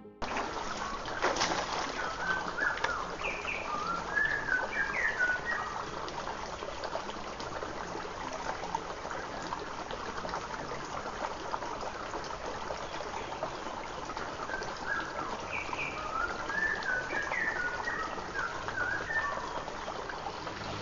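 A bird singing two short phrases of quick chirping notes, a few seconds in and again near the end, over a steady background hiss, with a single sharp click about a second in.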